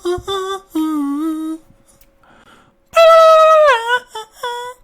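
A voice humming a short tune: several quick notes, a pause of over a second, then a long, loud note that slides down in pitch, followed by a few more quick notes.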